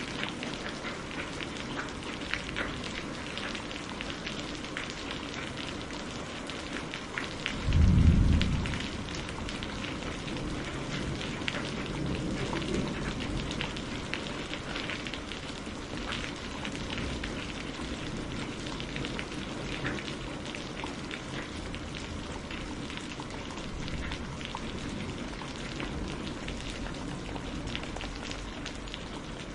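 Steady rain pattering on a surface, with many close individual drops ticking through it. About a quarter of the way in, a brief deep rumble swells up and fades, louder than the rain.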